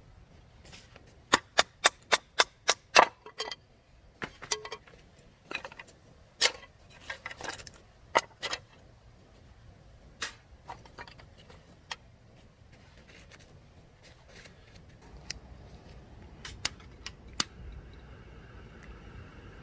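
A quick run of about eight sharp knocks, roughly three a second, then scattered lighter knocks and clicks.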